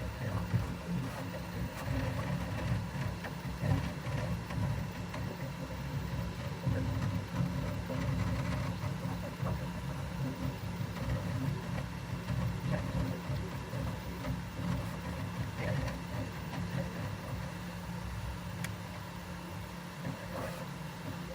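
A continuous dragging, grinding mechanical noise over a steady low rumble.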